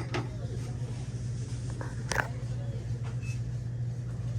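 Steady low hum with a low rumble beneath, broken by a few short clicks, the sharpest about two seconds in.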